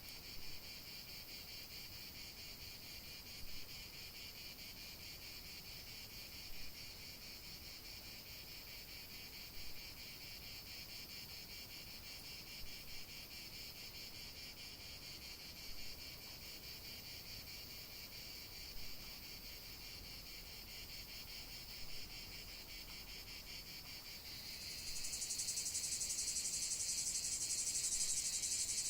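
Insect chorus: a steady, high-pitched chirring with faint louder pulses every few seconds. A second, louder and higher-pitched insect joins near the end.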